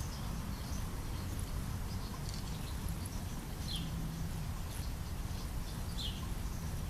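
Outdoor background noise, steady and low, with two short, falling chirps from a small bird, about four and six seconds in, and fainter chirps higher up.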